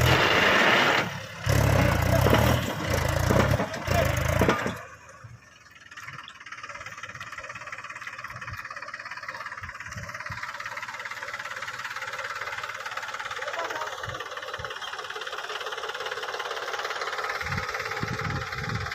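Mahindra 265 tractor's diesel engine running loud for about five seconds, then the sound drops away suddenly to a faint steady hum.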